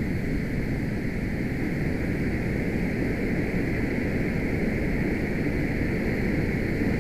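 Muddy floodwater of a typhoon-swollen river rushing in a steady, unbroken torrent.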